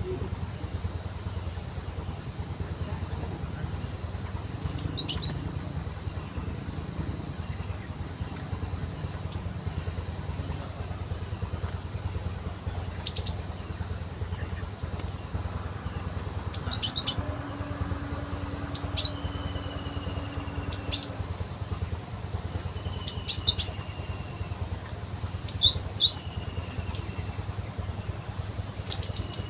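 Cinereous tit (gelatik batu) calling in the wild: short, sharp, falling chirps in little clusters every few seconds, with a few faint falling whistles. A steady high insect drone and a low hum run underneath.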